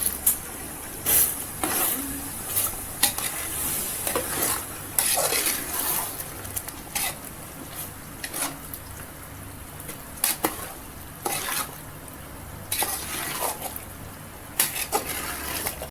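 A spoon stirring a pot of chicken masala with freshly added yogurt, scraping and knocking against the pot at irregular intervals of about a second, over a faint sizzle.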